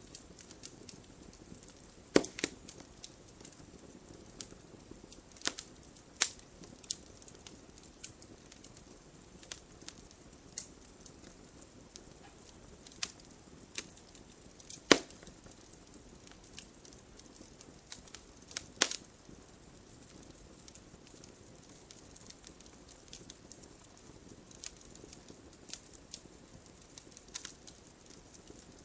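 Wood fire crackling: irregular sharp pops and snaps over a soft low hiss, with a few louder pops, the loudest about fifteen seconds in.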